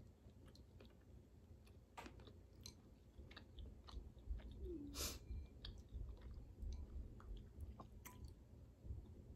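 A person chewing crawfish close to the microphone: quiet mouth sounds with scattered sharp clicks and smacks, the loudest about five seconds in.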